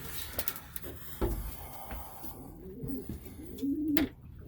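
Domestic pigeons cooing, several rising-and-falling coos one after another in the second half. A sharp knock about a second in.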